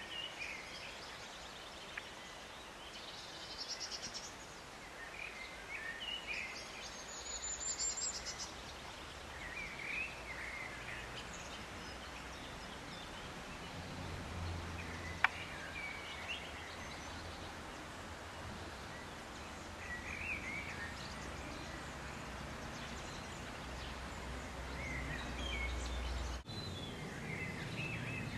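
Outdoor background noise with short bird chirps every few seconds and a couple of higher twittering phrases early on. A low rumble comes in about halfway through, and there is a single sharp click near the middle.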